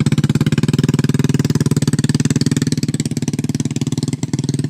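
A small engine running steadily with a fast, even pulse, like a motorbike idling close by.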